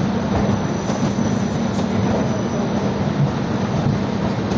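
Indian Railways LHB passenger coach running along the track: a steady, even rumble of wheels and running gear, with a faint high whine above it.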